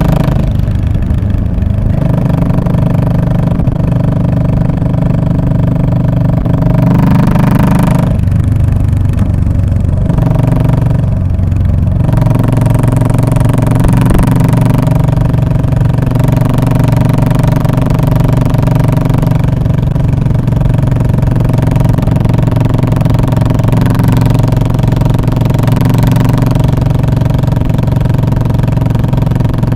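2017 Royal Enfield Classic 500's air-cooled single-cylinder engine running through its old-British-sounding muffler, a steady loud exhaust note. The pitch drops and shifts twice, about eight and eleven seconds in.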